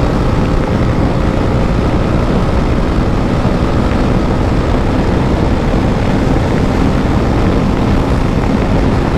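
KTM RC 390's single-cylinder engine running at a steady high speed, with heavy wind rush on the microphone.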